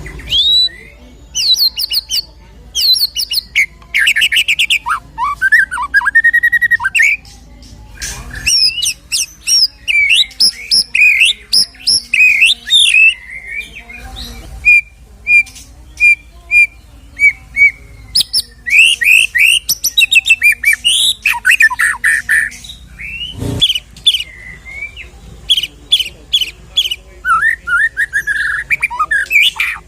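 White-rumped shama (murai batu) singing a loud, varied song of whistles, fast trills and repeated chattering notes laced with mimicked calls of other birds (isian), in short phrases with brief pauses. A single low thump about two-thirds of the way through.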